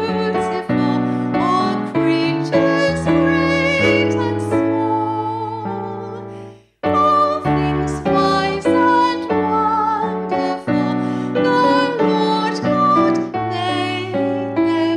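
Keyboard music with piano-like notes. It stops abruptly a little before halfway and starts again almost at once.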